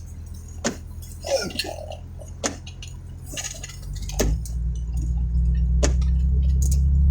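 Inside a vehicle: a low engine and road hum that grows steadily louder from about halfway through as the vehicle gets under way, with a sharp click roughly every two seconds.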